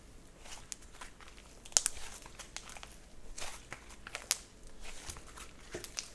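Slime being squished and worked by hand, giving irregular crackly clicks and pops, with the sharpest pop about two seconds in.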